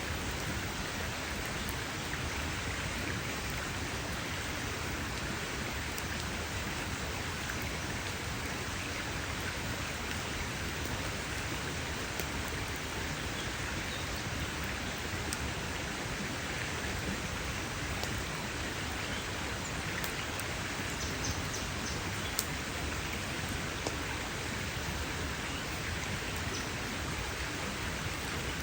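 Campfire burning with a steady hiss and a few sharp pops of crackling wood, the loudest about two-thirds of the way through.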